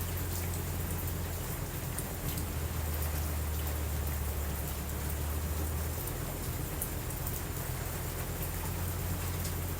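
Steady rain falling, with scattered light ticks and a steady low rumble underneath.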